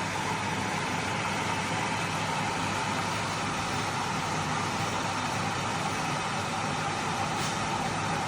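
Stainless-steel electric kettle heating water, giving a steady rushing rumble.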